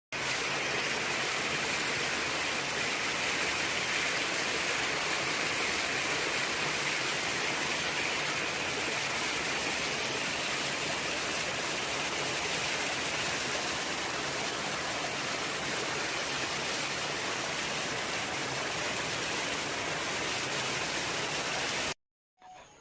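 Steady rush of falling water pouring at a natural bathing spot, an even hiss that cuts off suddenly near the end.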